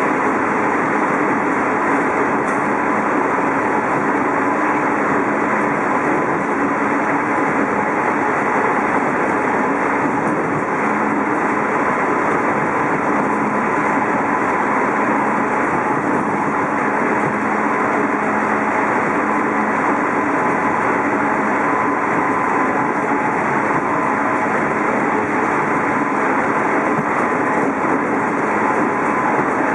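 Steady running noise of a JR East 211 series electric train, heard inside the motor car MoHa 210-2001: wheels on rail and running gear at an even speed, with a thin steady tone above the rumble. The sound does not change.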